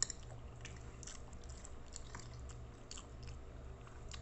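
A person chewing a mouthful of pork menudo, with scattered soft mouth clicks. A spoon clinks sharply on the plate right at the start, over a steady low hum.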